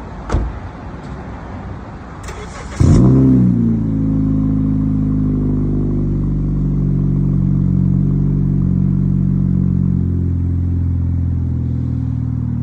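Honda Civic 1.8-litre four-cylinder being cranked and started through a resonator-delete exhaust with an eBay muffler: a click, a brief crank, then it catches loudly with a rev flare about three seconds in and settles into a steady idle.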